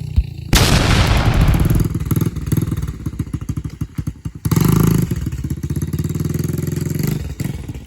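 Dirt bike engine running with rapid firing pulses. A sudden loud burst of noise comes about half a second in, and the engine is revved again at about four and a half seconds before settling back.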